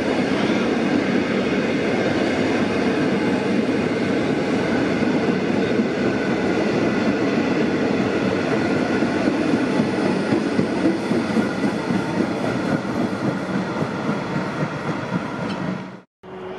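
Melbourne Metro electric suburban train running past on the far track: a steady, loud rumble of carriages and wheels on the rails. It fades out and cuts off about a second before the end.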